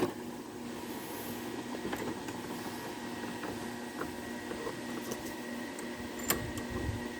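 Steady electrical hum of a small welder, with a few light clicks and taps of metal.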